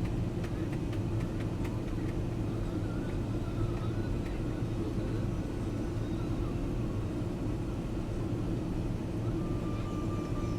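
Steady low drone of a passenger jet's engines and airflow, heard from inside the cabin.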